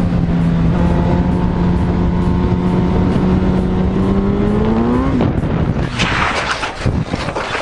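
Motorcycle engine running at steady revs, its note rising briefly and then dropping away about five seconds in. About six seconds in comes a harsh rasping noise lasting over a second.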